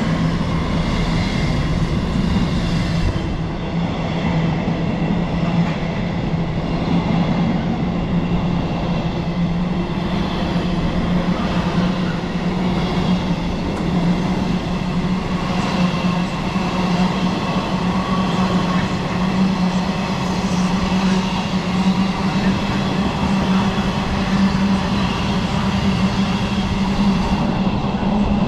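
Train running loudly and steadily, with an engine drone holding one low pitch.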